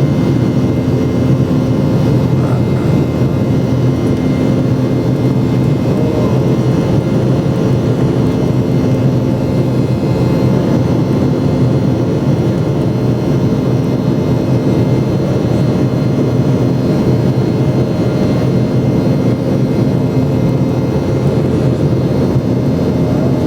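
Boeing 717's rear-mounted Rolls-Royce BR715 turbofans heard from inside the passenger cabin in flight: a loud, steady drone with an even low hum and rush of air, unchanging throughout.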